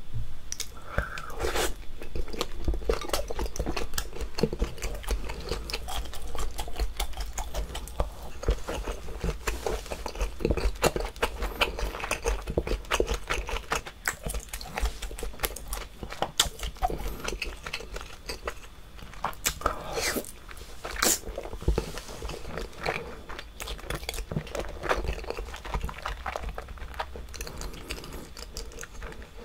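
Close-miked eating of sauce-coated seafood: chewing with a dense, irregular run of wet mouth clicks and smacks, a few louder ones about two-thirds of the way through.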